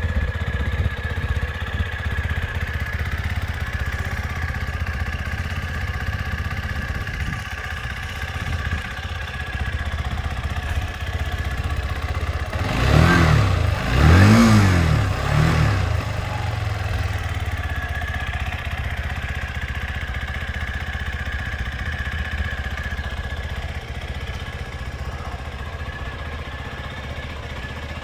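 Hansom Bennett 125 motorcycle exhaust idling steadily, with three quick throttle blips about halfway through, the middle one the loudest, each rev rising and falling back to idle.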